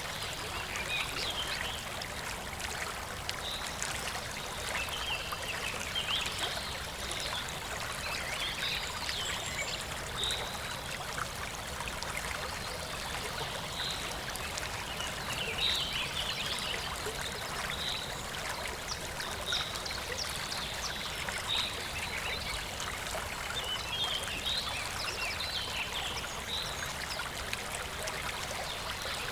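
Running stream water trickling steadily, with many short high-pitched sounds scattered throughout.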